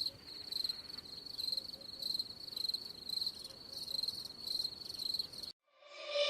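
Crickets chirping in a steady high pulse, about two chirps a second, that cuts off suddenly near the end.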